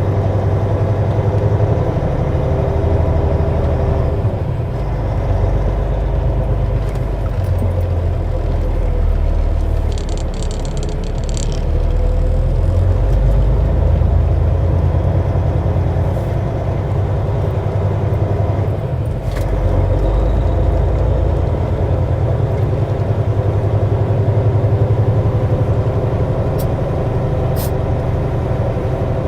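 Semi truck's diesel engine running under way, a steady low rumble whose note changes several times.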